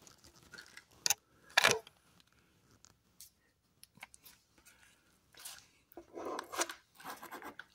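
Faint, scattered clicks and handling noises, the sharpest about a second and a half in, from the mode button of a smart battery charger being pressed to step through its settings.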